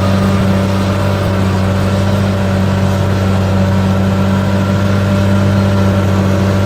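Diesel engine of a heavy earthmoving machine running at a steady speed under constant load, a steady low hum with no change in pitch.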